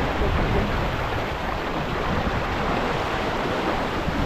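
Wind buffeting the microphone over a steady rush of water along a sailing boat's hull.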